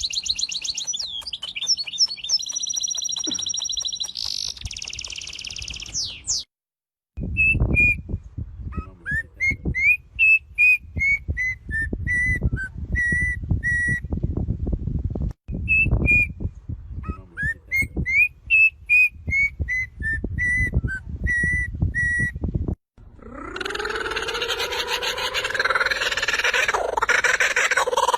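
Songbird singing in three separate clips: first fast trills and whistles, then a long run of clear whistled notes, many rising at the start, over a low rumbling noise. Near the end comes a harsher, louder call with several pitches.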